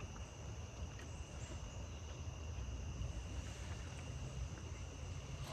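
Crickets trilling steadily, a constant high tone with no break, over a low rumble, with a couple of faint ticks.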